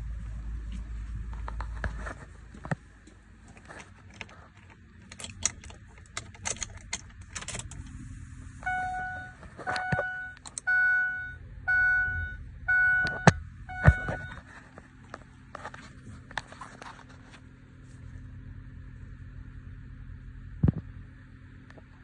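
Keys jangling and small clicks and rattles in a Ford F450 pickup before a cold start. Midway comes a run of about six short, evenly pitched electronic chimes from the truck's dashboard warning chime, followed by a faint steady hum.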